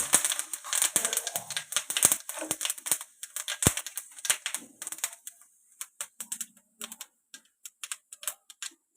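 Fennel seeds spluttering in hot sesame oil: quick sharp pops over a faint sizzle, dense at first and thinning to scattered pops over the last few seconds.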